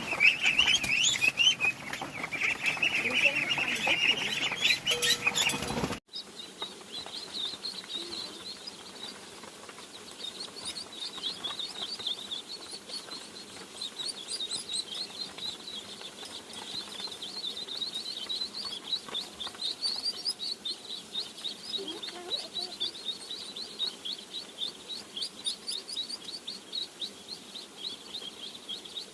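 A flock of ducklings peeping, a dense, loud chorus of high chirps that cuts off abruptly about six seconds in, followed by quieter, steady rapid peeping.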